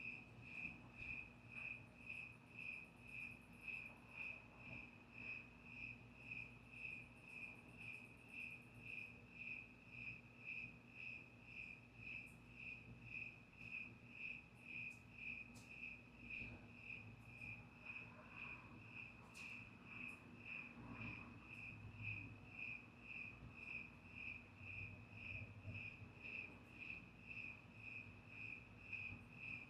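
Cricket chirping steadily at night, a quiet, even train of high-pitched chirps at about two a second, over a faint low hum.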